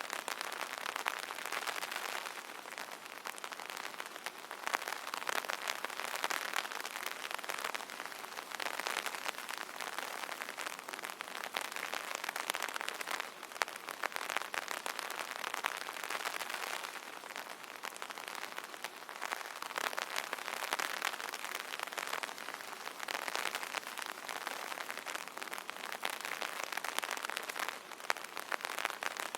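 Rain pattering on an umbrella canopy: a dense, steady crackle of many small drop hits that swells and eases a little every few seconds.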